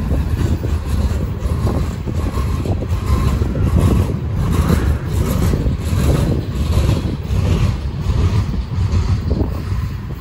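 Freight train boxcars and refrigerated cars rolling slowly past close by. Steel wheels on rail make a steady heavy rumble, with irregular clatter and rattling from the cars.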